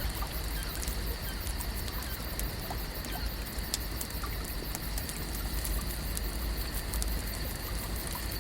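Layered lake ambience: a steady low rumble and even hiss with a faint steady high tone, dotted with many small scattered clicks and crackles.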